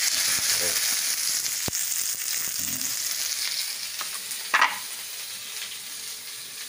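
Chopped shallots, garlic, tomato and chilies sizzling hard in hot oil in a wok just after being tipped in, the sizzle slowly dying down. A sharp clack about four and a half seconds in.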